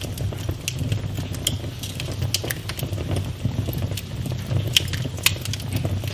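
Wood fire burning in a fireplace: a steady low rumble of flames with frequent crackles and sharp pops, two of them louder snaps near the end.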